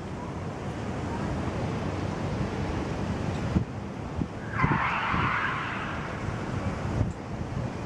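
Storm wind buffeting the microphone as a steady low rumble, with a few knocks and a loud hiss lasting about a second and a half near the middle.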